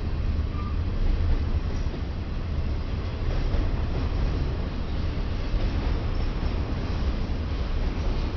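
A freight train rolling past: a steady, even rumble of wheels on track, low and continuous.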